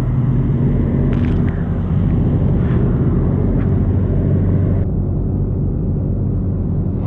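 A motor running steadily with a low, even hum under a noisy rush. The sound changes abruptly about five seconds in.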